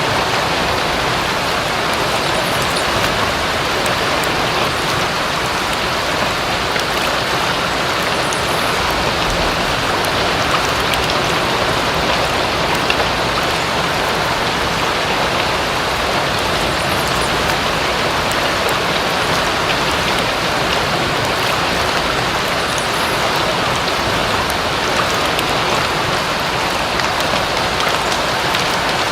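Steady rain falling, a dense even hiss of drops with no pauses.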